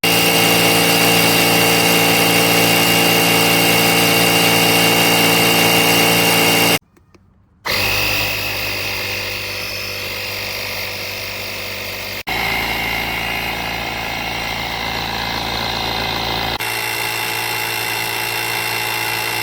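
Small electric air compressor built into a portable jump starter, running steadily with a loud, even hum. It stops abruptly about seven seconds in and starts again about a second later, and its tone shifts a little twice after that.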